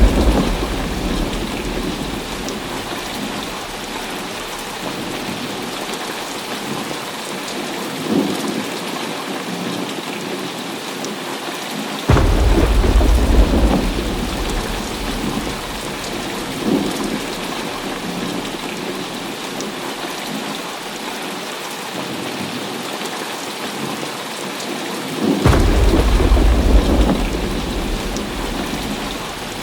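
Heavy rain falling steadily, with thunder: a sudden deep clap about 12 seconds in and another about 25 seconds in, each rumbling away over a few seconds, and fainter rumbles between them.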